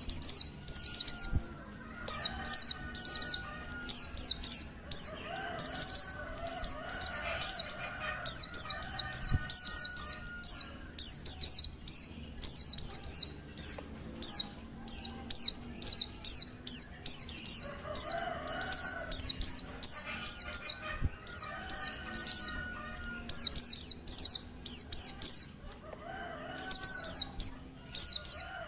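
Female white-eye (pleci) calling: rapid, very high-pitched falling chips in short bursts, repeated about once a second, used as a lure call to stir male pleci into song. Fainter, lower calls sound underneath.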